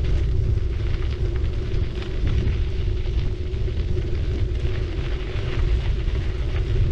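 Riding noise from a city bike: wind buffeting the action camera's microphone and tyres rumbling along the road, with a steady low hum and scattered light ticks throughout.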